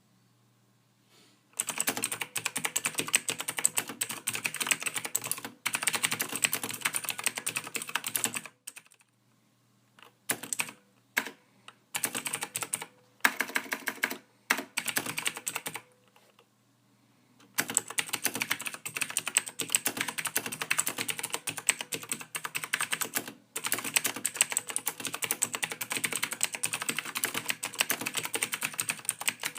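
Computer keyboard being typed on in fast, steady runs of soft keystrokes. The typing pauses for a few seconds near the start and twice midway, with a few short bursts in between.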